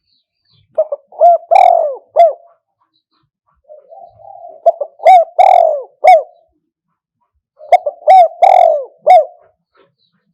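Spotted dove cooing: three phrases a few seconds apart, each a couple of short notes then longer arched coos.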